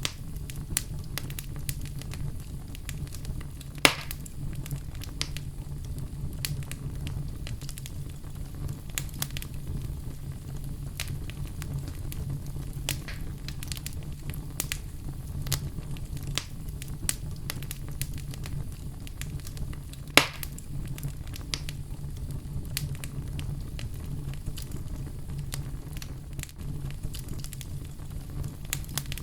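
Wood fire burning in a fireplace: a steady low rumble with frequent irregular crackles and two louder pops, about 4 seconds in and about 20 seconds in.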